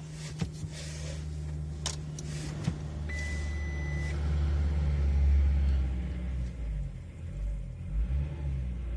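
1.9 TDI ARL four-cylinder turbodiesel cold-starting at about −16 °C: a few clicks, a single dashboard beep about a second long, then the engine swells up around the middle and settles into an uneven cold idle.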